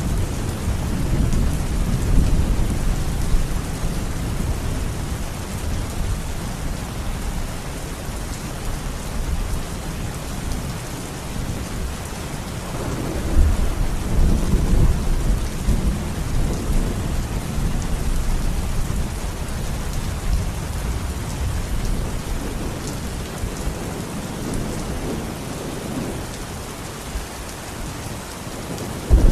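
Steady rain falling, with low rolling thunder rumbling underneath that swells near the start and again about halfway through.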